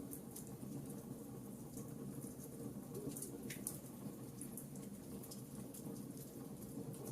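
Fire burning in a fireplace: a steady low rumble of flames with irregular sharp crackles and pops, several a second.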